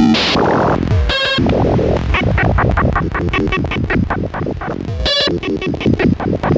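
Experimental electronic noise music from Bastl Kastle and Korg Volca Modular synthesizers: a dense, glitchy texture that changes abruptly at the start, with choppy pitched bursts and tones sweeping downward.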